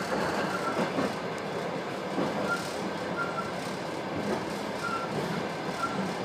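Passenger train running, heard from inside the carriage: a steady rumble of wheels on the track, with a few short high squeaks.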